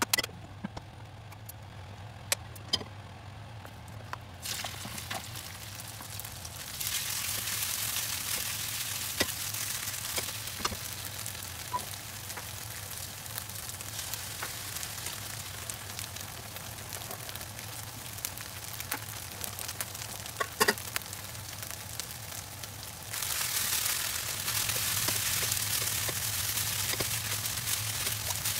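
Beef strips and vegetables sizzling as they fry in oil in two woks on a gas hob. The sizzle swells about seven seconds in and again near the end, over a low steady hum, with scattered clicks of a utensil against the pan.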